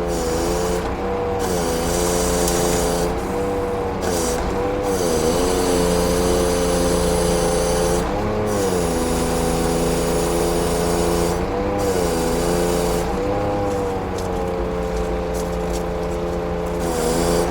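Scania truck's diesel engine running steadily, its speed dipping briefly and picking up again about half a dozen times, with a hiss above it that comes and goes.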